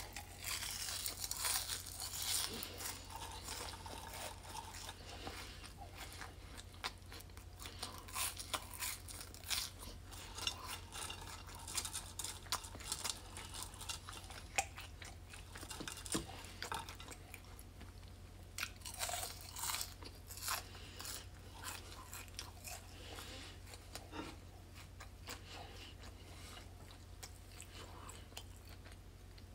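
Close-up chewing and crunching of fried food, French fries and breaded chicken tenders, in irregular bites, over a steady low hum.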